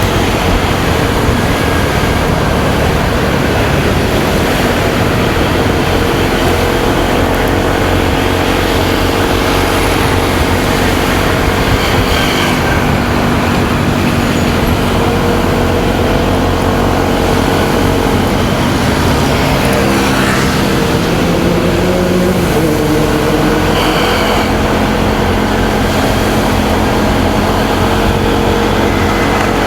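Motorcycle engine running while riding, with heavy wind rumble on the microphone and surrounding road traffic; the engine's pitch rises and falls several times with the throttle.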